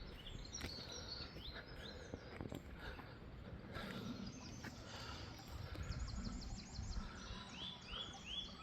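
Small birds chirping and calling in woodland, with many short high notes, and a quick run of four repeated notes near the end.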